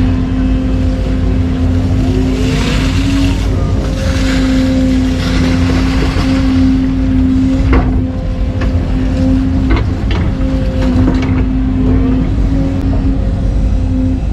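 Excavator's diesel engine running steadily under load, with a steady whine over its rumble. A few sharp clanks come in the second half.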